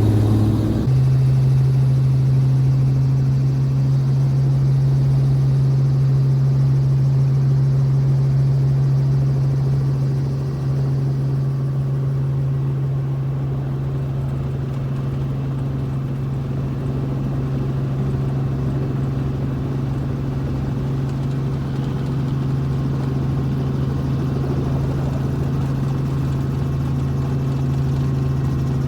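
Helicopter engine and rotors running with a steady, even drone; about a second in, the pitch steps up and then holds constant.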